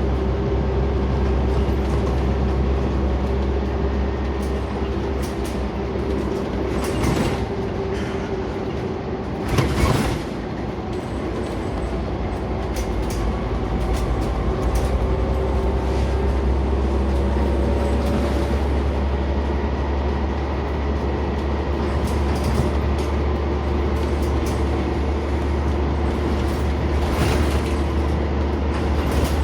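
Scania Omnicity single-deck bus heard from inside while moving: a steady engine drone and hum, with scattered rattles and knocks from the body and fittings, and a louder clatter about ten seconds in.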